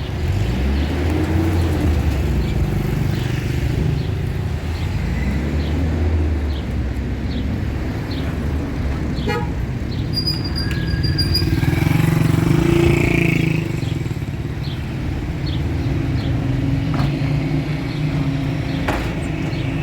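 A motor vehicle running steadily on the road, with traffic noise around it.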